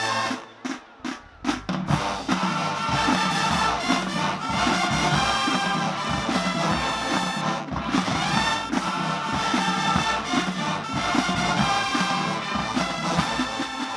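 Marching band playing: a few sharp, separated hits with brief breaks in the first two seconds, then the full brass section and drums playing together.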